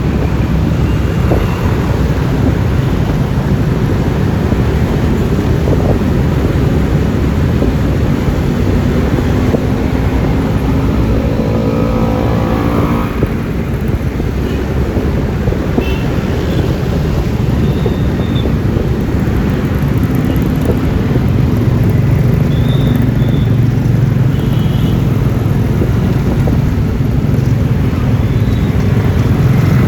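Road noise from a ride on a Yamaha Lexi LX 155 scooter: its 155 cc single-cylinder engine is running under wind and tyre rush, with passing traffic. The engine hum grows louder over the last third.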